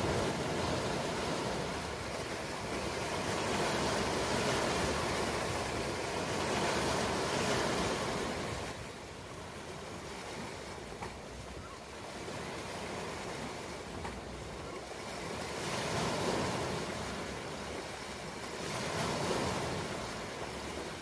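Ocean surf: a steady rushing wash of waves that swells and ebbs. It is loudest in the first third, dips in the middle, and rises in two more swells near the end.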